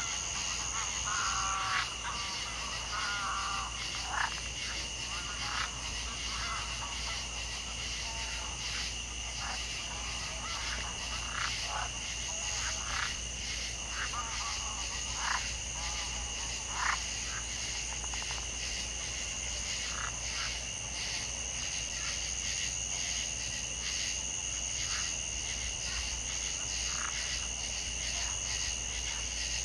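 Chorus of frogs and insects: two steady high-pitched trills run on throughout, while short calls pop in irregularly, most often in the first half.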